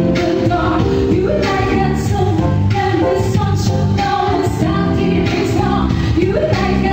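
A pop song played by a band, with a lead vocal sung over the accompaniment and a steady beat.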